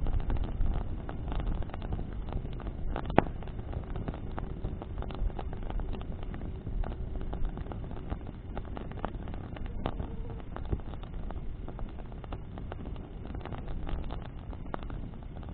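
Bonfire burning, with scattered crackles and pops from the burning wood, the loudest pop about three seconds in, over a steady low rumble of wind.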